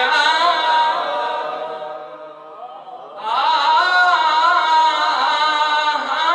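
A man's voice chanting an Arabic lament in long, drawn-out melodic lines. One phrase trails off about two seconds in, and a new one starts about three seconds in.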